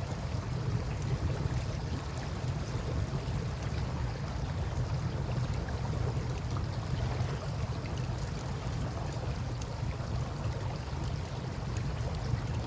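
Steady rush of river water with a low rumble, and faint scattered crackles from a campfire.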